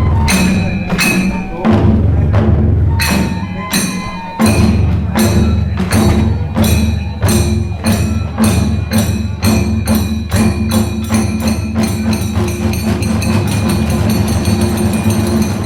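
Kagura hayashi ensemble of taiko drums and tebyoshi hand cymbals playing: a steady drum beat under sharp cymbal clashes that speed up from about two a second to several a second.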